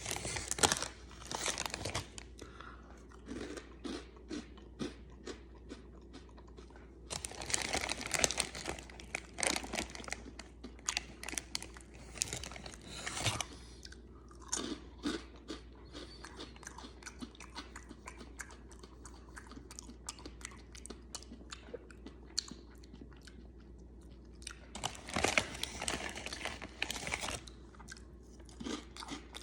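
A person biting and chewing crunchy Cheetos Mexican street corn snacks: many sharp crunches, coming thickest and loudest in two bouts, one about a quarter of the way in and one near the end.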